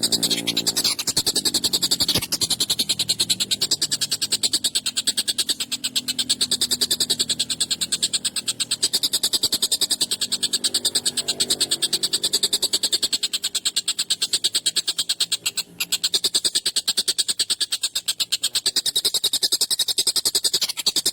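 Tengkek buto (a large kingfisher) calling in a long, harsh, rapid rattle of many pulses a second that keeps going with only a brief break near the middle-to-late part.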